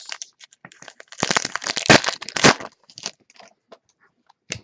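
Crinkling and crackling of a trading-card pack wrapper being handled and opened, most dense for about a second and a half, followed by a few light clicks and ticks.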